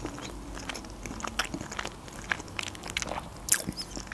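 Close-miked chewing of a mouthful of quiche: irregular soft, wet clicks and crackles from the mouth, with one sharper click about three and a half seconds in.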